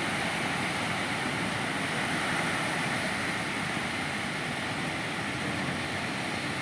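Steady, even noise of ocean surf breaking on a beach.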